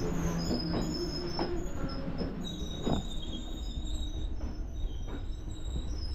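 Passenger train running, heard from inside a carriage: a steady low rumble with a thin high wheel squeal and a few short knocks from the track.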